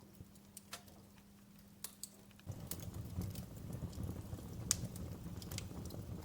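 Wood fire in a fireplace crackling, with scattered sharp pops and snaps. About two and a half seconds in, a low rumble of the burning fire starts abruptly and carries on under the crackles.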